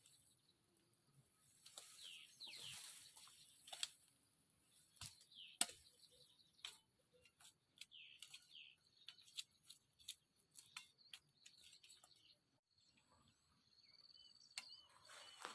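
Faint bird calls, short falling chirps now and then, with scattered sharp clicks and snaps.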